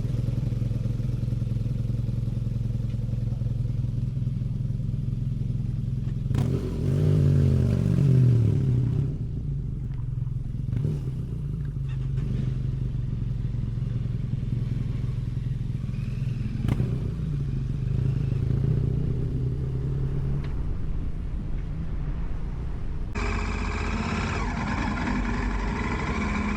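Motorcycle engine running under way, with a steady note that rises and falls twice as the rider opens and closes the throttle. Near the end the engine sound changes abruptly.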